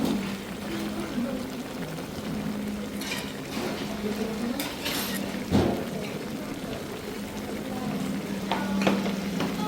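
Budae-jjigae stew bubbling in its pot, with a few utensil clinks and one louder knock about halfway through. A steady low hum runs underneath.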